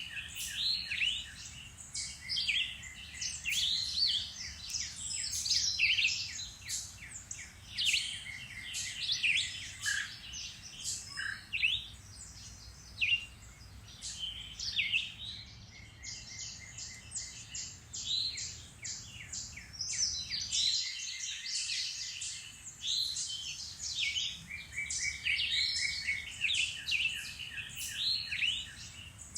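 A chorus of songbirds singing and calling over one another: quick chirps, short trills and whistled notes, one after another throughout.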